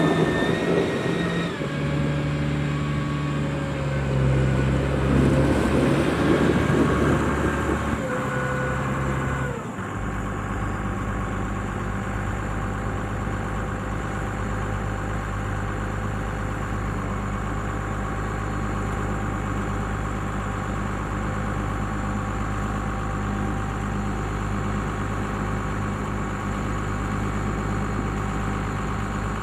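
1999 Case IH MX135's Cummins 5.9 six-cylinder turbocharged diesel running at raised revs, its pitch shifting up and down. About ten seconds in it drops to a steady idle.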